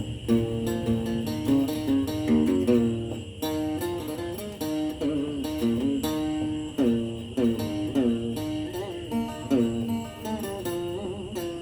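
An old guitar played solo, a plucked single-note melody with several notes bent and wavered in pitch, over a faint steady high whine. The instrument is old, and its tone is not good, in the player's own words.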